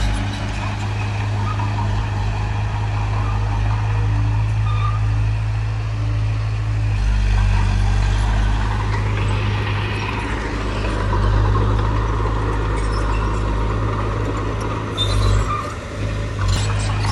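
Heavy earthmoving machine's diesel engine running steadily with a deep, even drone, its level rising and falling a little, with a short dip and surge near the end.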